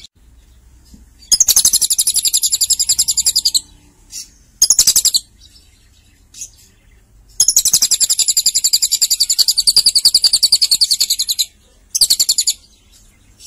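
Lovebird singing long, rapid, high-pitched chattering trills in four bouts: a trill of about two seconds, a short burst, a long trill of about four seconds, then another short burst.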